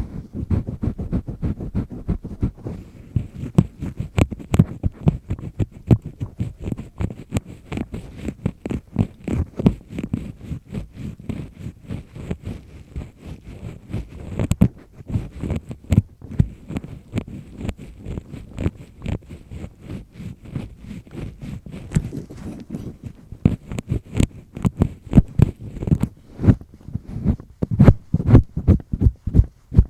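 Double disc-type earpick scraping firmly inside an ear, close to the microphone: a fast, continuous run of short scratchy strokes, several a second, getting louder near the end.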